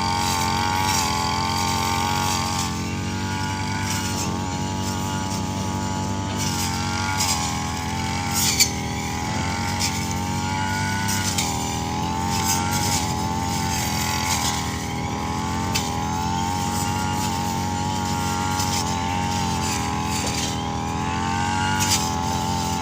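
A heavy engine running steadily, its pitch wavering a little, with a few sharp knocks, one standing out about a third of the way in.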